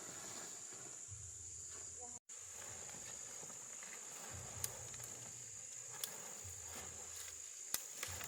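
Steady high-pitched chirring of insects, with a few sharp clicks in the second half. The sound drops out briefly about two seconds in.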